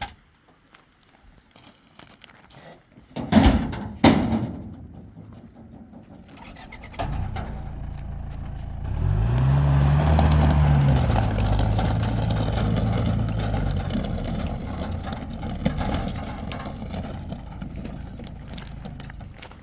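Two heavy thumps, then a vehicle's engine starts about seven seconds in. It revs up and back down and then runs steadily, slowly growing quieter.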